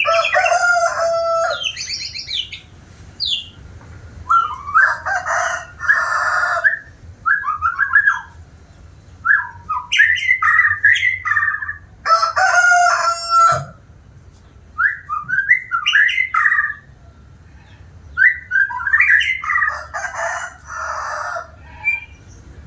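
White-rumped shama (murai batu) singing: a run of loud, varied phrases of whistles and harsh rattles, each a second or two long with short pauses between.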